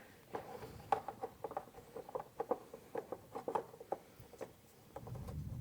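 Irregular light clicks and taps, several a second, of hands fitting and hooking up small metal parts on a riding mower's engine during carburetor reassembly. A low rumble rises near the end.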